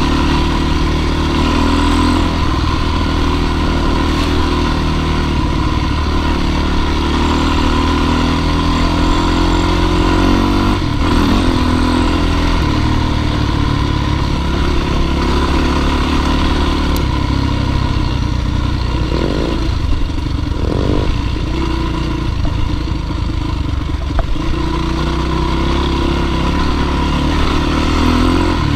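Dirt bike engine running under load, its pitch shifting as the throttle opens and closes, with a few short revs partway through.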